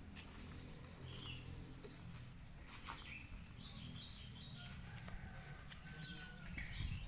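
Birds chirping faintly in short scattered calls, with a thin whistled note in the latter half, over a low outdoor rumble; a single sharp click comes a little before the middle.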